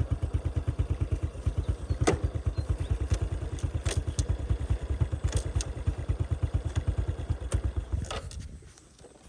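Motorcycle engine running with an even, slow putter, with a few sharp clicks and knocks. It dies away about eight seconds in.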